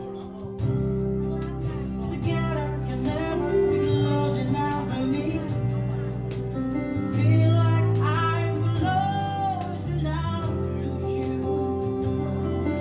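A live pop band playing: singing over keyboard, bass guitar, guitar and cajón, with a steady beat.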